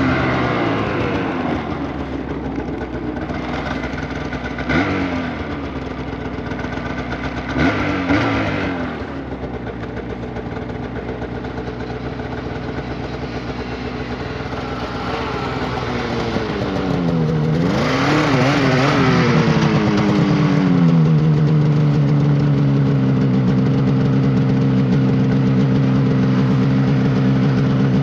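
Polaris Indy 600 two-stroke snowmobile engine running, with two short revs in the first part. A longer rev rises and falls about two-thirds of the way in, then the engine settles into a steady, louder note.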